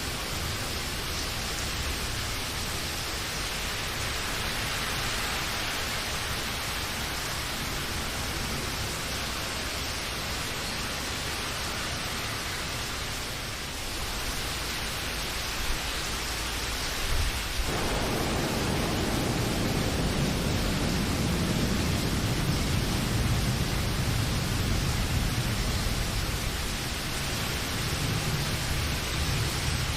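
Steady rain with an even hiss. Just past halfway, a low rumble comes in underneath and carries on, making the sound deeper and slightly louder.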